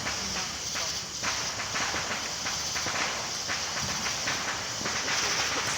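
Irregular rustling and handling noise over a steady high hiss.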